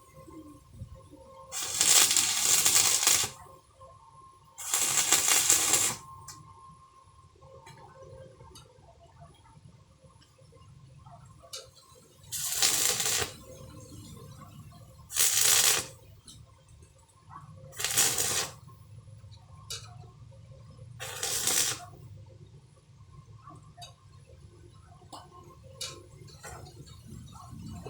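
Welding at the workpiece, laid down as six short tack welds, each a burst of hissing noise lasting about a second, with pauses of one to several seconds between them.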